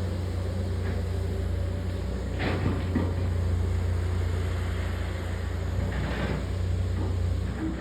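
Truck engine running steadily with a low hum, with two short rushing noises, one a little after two seconds in and one about six seconds in.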